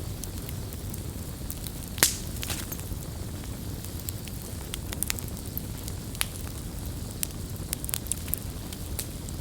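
Campfire burning with a steady low rumble and scattered sharp pops and crackles, the loudest pop about two seconds in.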